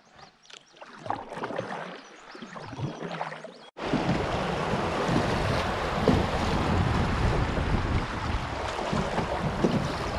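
A few soft knocks and clicks of handling on a kayak, then after an abrupt cut a steady rush of wind buffeting the microphone, mixed with moving water.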